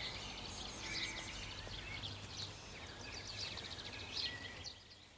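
Small songbirds chirping and warbling over a faint outdoor hum; the birdsong and hum drop away about four and a half seconds in.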